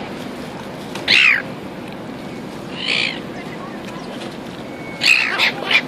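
Seagulls calling: a loud call sliding downward about a second in, a fainter one around three seconds, and several calls close together near the end, over a steady background hiss.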